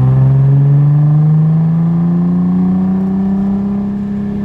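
Nissan 300ZX's V6 running through a straight-pipe exhaust, pulling steadily under acceleration with its note climbing slowly in pitch.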